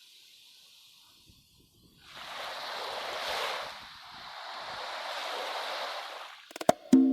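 Two slow swells of surf washing in and ebbing away, after a brief near-silence between tracks. Plucked instrument notes start near the end as the next piece begins.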